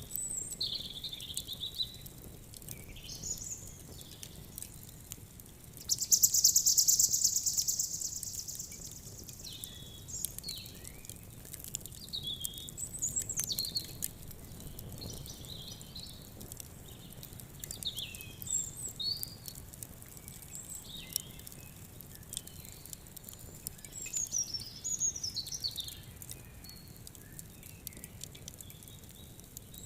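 Birds chirping and calling in short, scattered phrases, with a loud rapid trill lasting a couple of seconds about six seconds in. Small crackles of a wood fire tick through the background.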